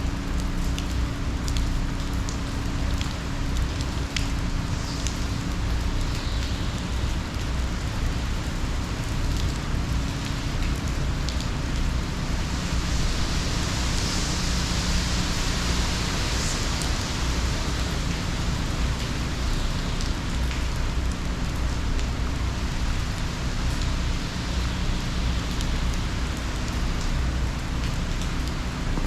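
Heavy hurricane rain falling steadily, with a deep low rumble underneath and scattered small ticks of drops striking.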